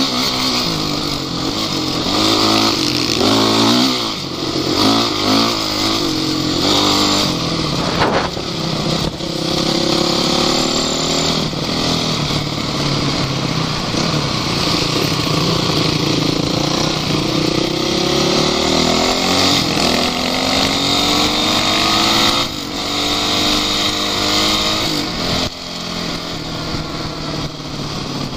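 Off-road vehicle engine running under load, its revs rising and falling again and again as it is driven, with a brief sharp knock about eight seconds in.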